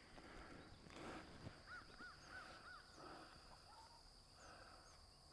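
Quiet outdoor ambience: a steady high insect drone throughout, a bird giving four quick chirps about two seconds in, a few tiny high bird chirps, and faint scuffs.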